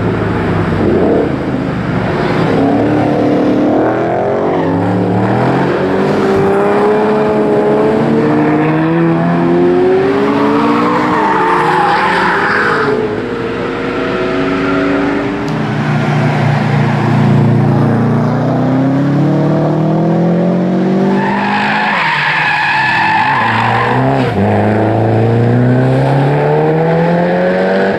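Race car engine accelerating hard, its pitch climbing and then dropping back at each gear change, again and again.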